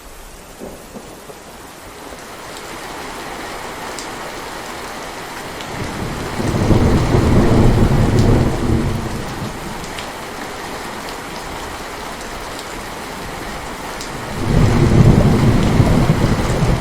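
Heavy rain falling steadily, growing denser over the first couple of seconds, with two deep rolls of thunder: one about six seconds in that lasts around three seconds, and another near the end.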